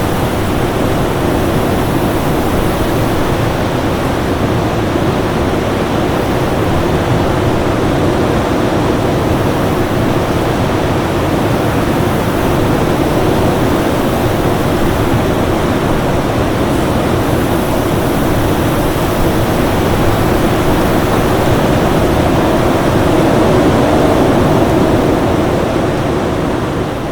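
Winter storm ambience: a steady, dense rush of wind noise, fullest in the low-middle range, with a faint steady tone underneath. It begins to fade out at the very end.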